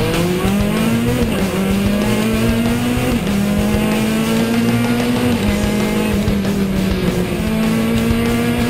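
Citroën C2 R2 Max rally car's 1.6-litre four-cylinder engine heard from inside the cabin, pulling hard at high revs through quick upshifts. The pitch climbs and then drops at each of about four gear changes.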